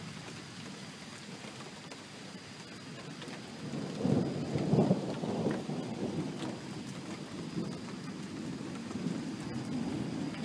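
Steady rain with a rolling rumble of thunder that swells about four seconds in, then carries on in weaker rolls.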